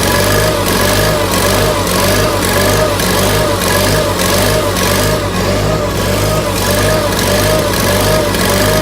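A 1987 John Deere 318 garden tractor's engine running steadily after a cold start in below-zero air, with a slight wobble in pitch about one and a half times a second.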